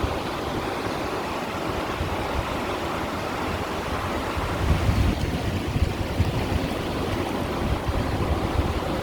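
Small sea waves washing against shoreline stones, a steady wash that swells louder about halfway through. Wind buffets the microphone, adding a choppy low rumble.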